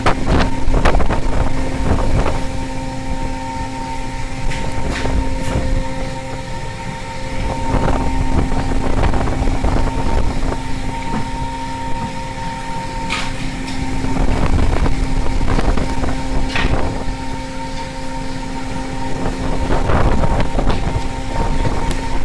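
A fishing vessel's machinery hums steadily over a low rumble of wind and sea, with wind buffeting the microphone. Scattered knocks and clanks come through now and then.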